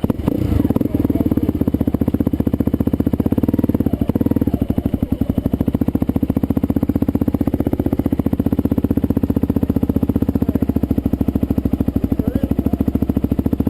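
Dirt bike engine idling loudly and steadily with an even, rapid firing pulse, at an unchanging speed.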